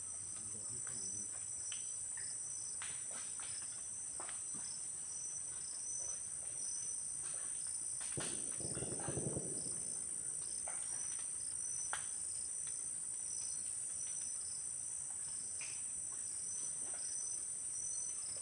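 Insects chirring in a steady, high-pitched chorus, with a second pulsing tone beneath it. Scattered faint clicks, and a short low sound about nine seconds in.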